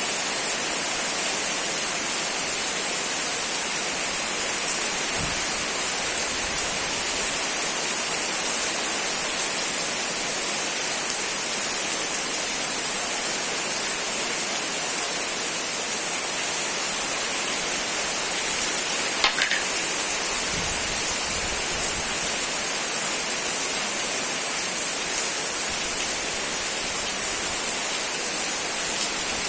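Steady rain falling, an even hiss of many drops. A single sharp click stands out about two-thirds of the way through.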